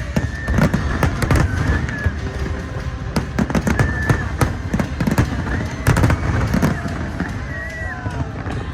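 Aerial fireworks bursting in quick succession: a dense run of sharp bangs over a rolling low rumble, with short high whistling tones gliding over them.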